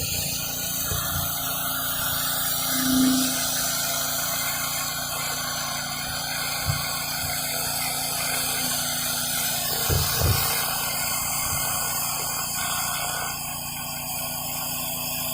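Gas-engine pressure washer running steadily, its high-pressure water spray hissing against concrete, with a few brief low thumps about ten seconds in.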